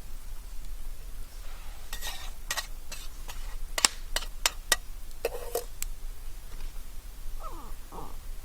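A run of about eight sharp clicks and knocks over a few seconds, followed near the end by two short falling squeaks.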